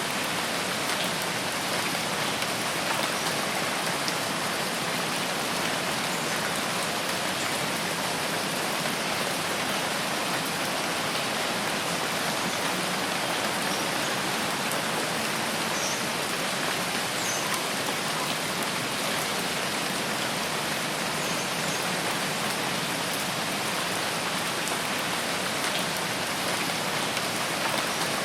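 Steady heavy rain falling on foliage and ground, a dense even hiss with scattered faint drop ticks.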